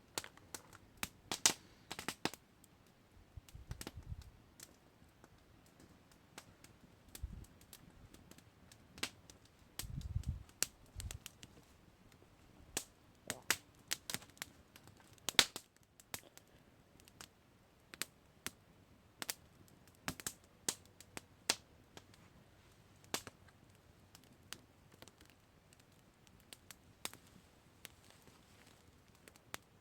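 Campfire crackling: irregular sharp pops and snaps of burning wood, a few of them louder, with occasional soft low thuds, over a faint hiss.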